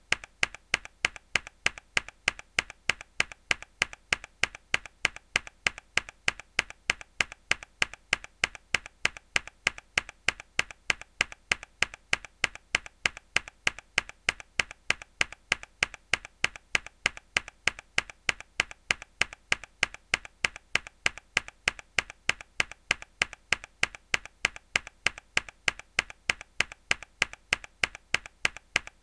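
A single hard key press on a mechanical keyboard, looped: one sharp click repeated at an even rhythm of a couple of presses a second.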